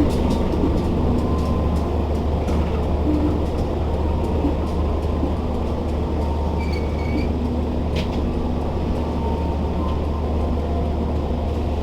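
Train running on the track with a steady low diesel rumble and wheel noise. A short high tone sounds about seven seconds in, and a single click about a second later.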